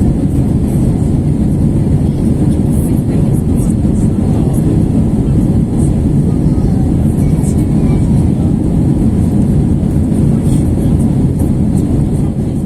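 Steady cabin roar of an Airbus A321-231 climbing after takeoff: its IAE V2500 turbofans and the airflow heard from a rear window seat, as an even low rumble with faint scattered ticks.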